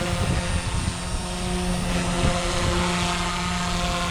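Blade 150S micro RC helicopter's electric motor and rotor blades running at a steady, even pitch, a held multi-tone whine, while the helicopter warms up in flight.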